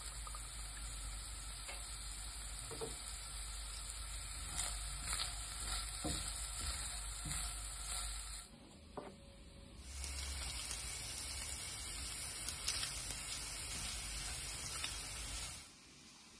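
Minced meat and onion sizzling in a frying pan while a silicone spatula stirs them, with scattered light taps and scrapes against the pan. The sizzle drops away briefly a little past halfway, and again near the end.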